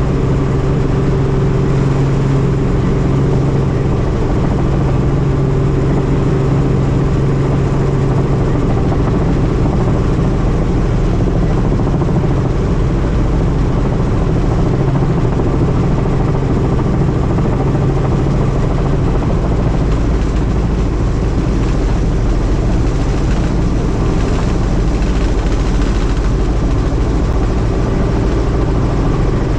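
Helicopter engine and rotor running steadily: a constant low drone with a steady hum and a wash of noise.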